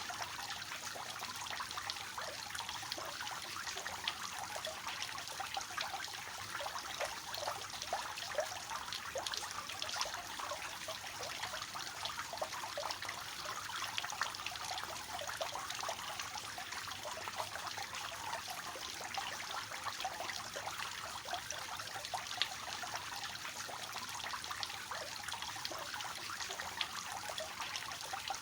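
Water from a three-tiered cascade fountain falling and splashing steadily, a dense patter of small splashes over an even rush.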